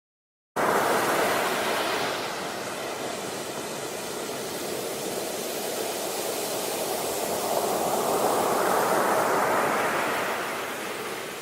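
A steady rushing noise that cuts in suddenly about half a second in, then slowly eases and swells again, with no distinct strokes or tones.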